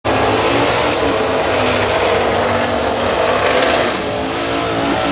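Twin-turbo big-block V8 drag car running hard at full throttle, with a high turbo whine that climbs, holds, then falls away about four seconds in.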